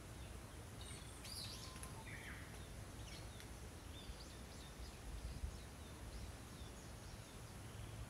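Small birds chirping faintly outdoors: a few short high calls about a second in, then many brief chirps through the middle, over a steady low rumble and hiss of ambient outdoor noise.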